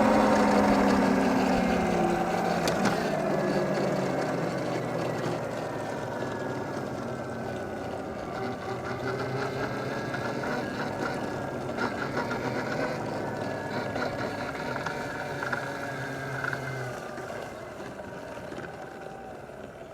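A motor vehicle moving off and away: its engine note falls in pitch over the first few seconds, then holds steadier as the sound slowly fades out.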